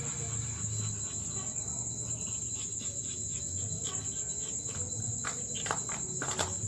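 Steady high-pitched chirring of night insects. A few short clicks or knocks come near the end.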